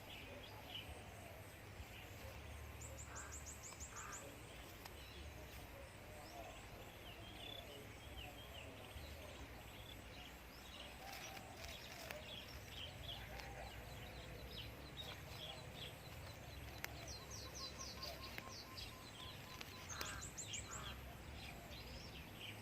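Faint outdoor birdsong: low cooing from a spotted dove, with quick high trills from small birds about three seconds in and again near the end.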